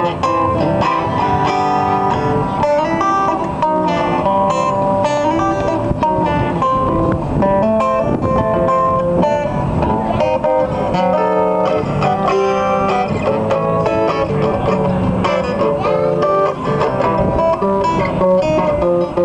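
Instrumental break on a vintage Gibson acoustic guitar played with a bottleneck slide: blues picking with gliding slide notes, no singing.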